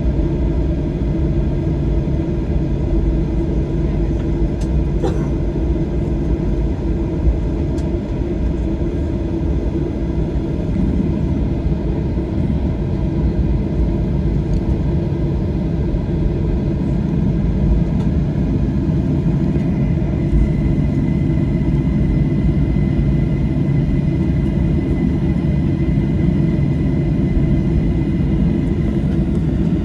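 Steady low rumble of a Boeing 737-800's engines and airframe heard from inside the passenger cabin, with a faint steady whine joining about two-thirds of the way in.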